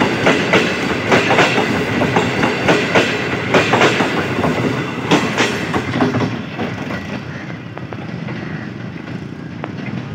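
Passenger train coaches rolling past close by, the wheels clacking irregularly over the rail joints over a steady rumble. About six seconds in the clacking stops and the rumble fades as the last coach goes by and the train draws away.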